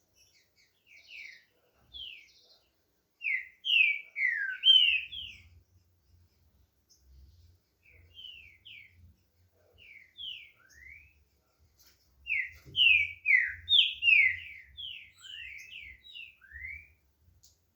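Green-winged saltator (trinca-ferro) starting up its song: quick clear whistled notes, each slurring downward, in two loud bursts about three seconds in and about twelve seconds in, with softer scattered notes between.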